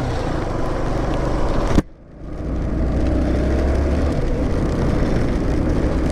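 Motorcycle engine running under a steady rushing noise of rain and wind on the microphone. The sound breaks off abruptly about two seconds in and resumes at the same steady level.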